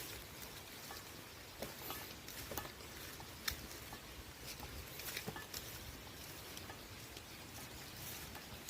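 Light rain: a steady hiss with scattered, irregular drops ticking sharply, one louder drop about halfway through.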